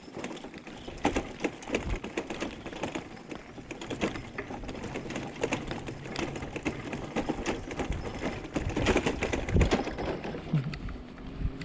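Bicycle rattling and clattering as it rolls over bumpy paving stones: a fast, uneven run of clicks and knocks, with a louder jolt near the end.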